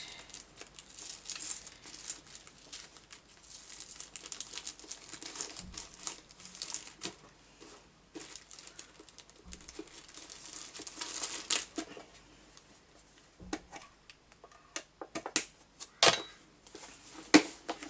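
Crinkling and rustling as craft supplies are handled on a desk, irregular throughout, with a few sharper clicks near the end.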